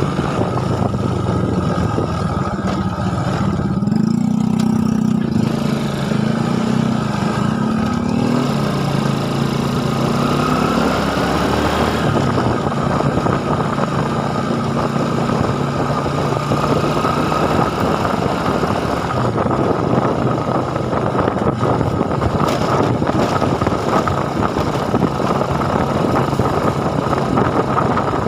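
A small engine running steadily, its pitch rising and falling in the first half, then holding steady.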